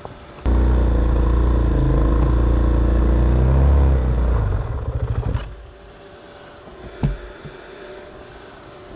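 Dirt bike engine running loud and steady for about four seconds, then stuttering and falling away about five seconds in. A single knock follows near the end.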